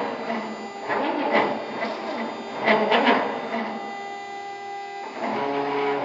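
Stepper motors of a CNC wood router driving its axes through a test run. A few quick surging moves give way to steady pitched motor whines, which jump to a different pitch about five seconds in.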